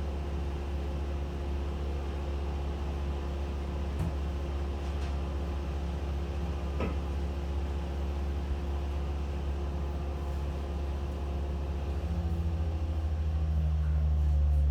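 An engine running steadily with a low, even hum, growing louder and changing pitch about twelve seconds in; two faint clicks along the way.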